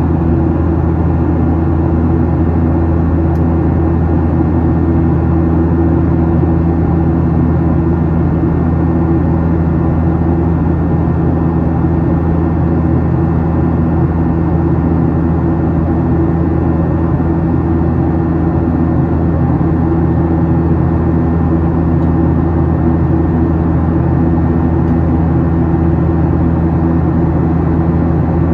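Steady drone of a Boeing 737-800's CFM56-7B turbofan engines and rushing airflow, heard inside the passenger cabin during the climb, with a constant low hum under an even roar.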